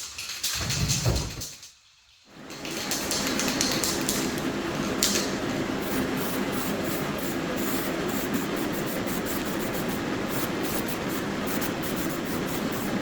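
Paint spray hissing steadily as etch primer goes onto the bare, sandblasted fork lowers. It starts after a short low sound and a brief pause.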